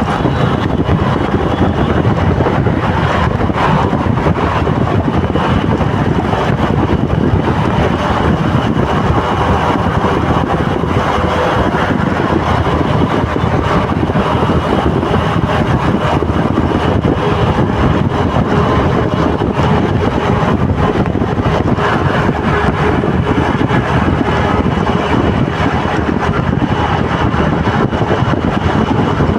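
Steady road-traffic noise with wind rushing over the microphone.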